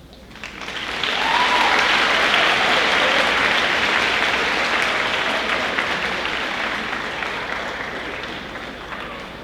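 An audience applauding. The clapping swells within the first second, then slowly dies away toward the end.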